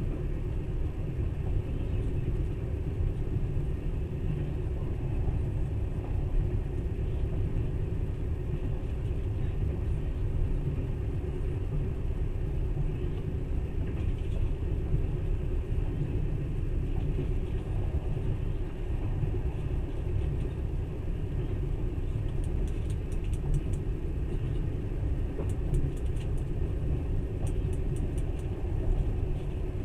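Passenger train running steadily, a continuous low rumble of wheels and carriage heard from inside the car. Faint rapid ticking joins in during the last several seconds.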